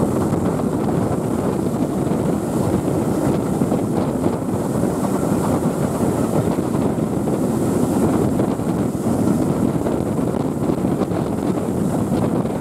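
Steam-hauled heritage train running at speed, heard from an open carriage window: a steady rush of wind buffeting the microphone over the rumble of the carriage on the rails.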